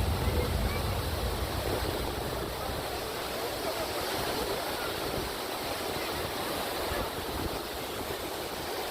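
Waterfall's water rushing in a steady, even roar of noise.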